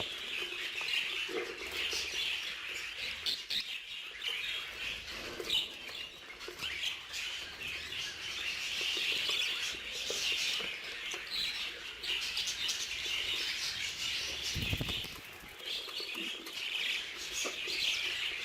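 A roomful of budgerigars chirping and chattering continuously, with a brief low bump about 15 seconds in.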